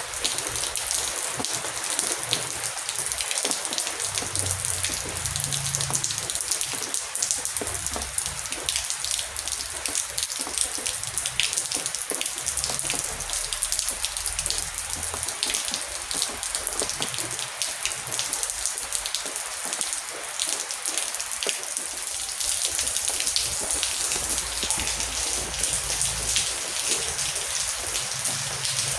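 Heavy rain falling steadily: a dense hiss of rain with many individual drops pattering on surfaces.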